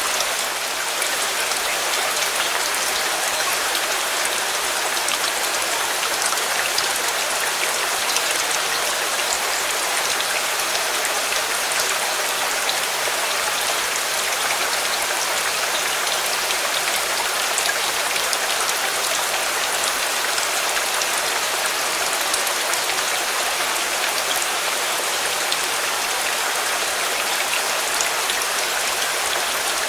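Steady, even rain with many small drop ticks, unchanging throughout.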